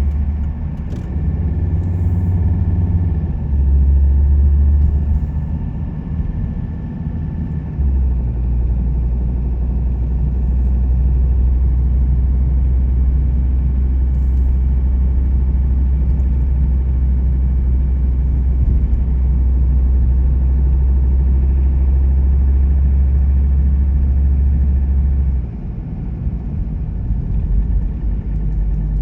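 A car driving: a steady, loud low rumble of engine and road noise, which grows stronger about eight seconds in and falls away near the end.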